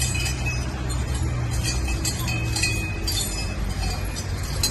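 Metal bells jingling and clinking in irregular clusters, over a steady low drone of procession noise.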